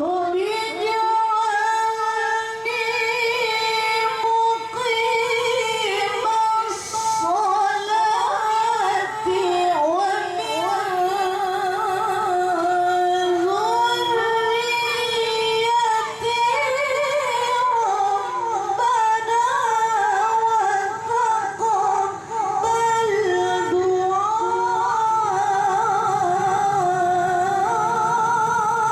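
A woman reciting the Qur'an in the melodic tilawah style, holding long high-pitched phrases with wavering, ornamented runs of pitch and only a few brief breaths between them.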